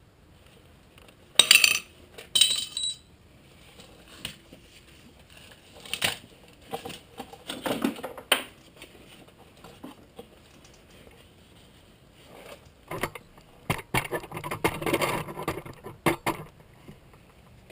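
Metal tools and sheet-metal parts clanking and clinking as they are handled during bodywork. There are two sharp ringing clanks early, then scattered knocks, then a busier run of rattling clinks near the end.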